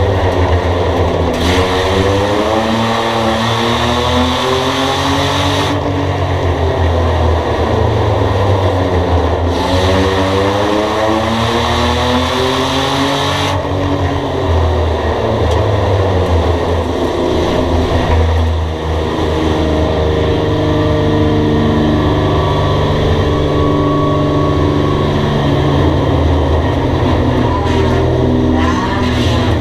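Race cars running laps on an oval track, their engines revving up and easing off in a repeating rise and fall every few seconds.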